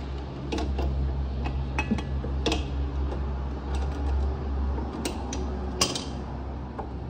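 Scattered metal clinks and taps, hand tools and fittings knocking against metal, over a steady low hum.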